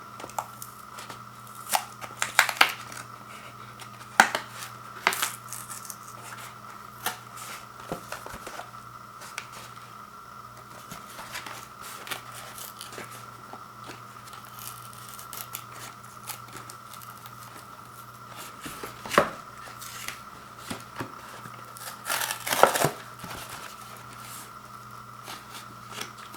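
A frozen microwave pizza's cardboard box and plastic wrapping being handled and torn open: irregular tearing, crinkling and clicking, with several louder bursts. A faint steady hum runs underneath.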